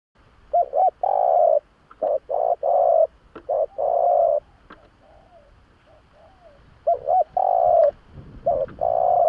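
Spotted dove cooing its song: two phrases, each opening with a couple of short notes and running into several longer coos, the second phrase starting about 7 seconds in, with soft quieter coos in the gap between.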